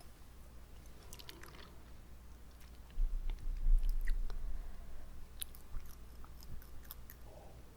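Wet mouth sounds: scattered sticky clicks and smacks of lips and tongue. About three seconds in, a low muffled rumble lasting over a second is the loudest part.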